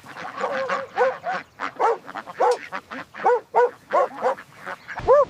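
Puppies yapping in play: a quick, irregular run of short, high-pitched yaps, about ten in all.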